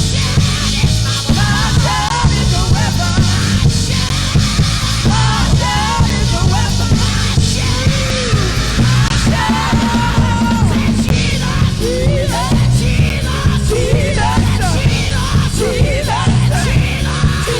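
Live worship band playing loud and steady, with strong bass and a voice winding up and down in pitch over it, singing and calling out.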